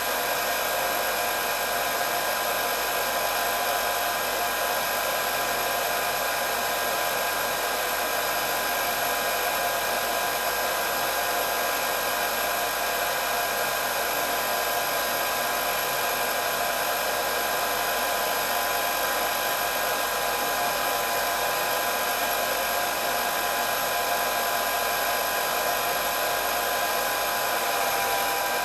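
Electric hair dryer running steadily: a constant rush of blown air with a high motor whine on top, unchanging in pitch and level.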